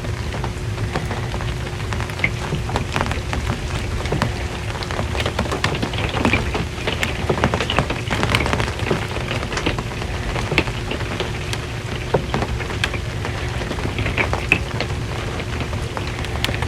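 Steady rain on a metal RV roof: a constant hiss with many separate drop impacts ticking across it, over a low steady rumble and a faint constant hum.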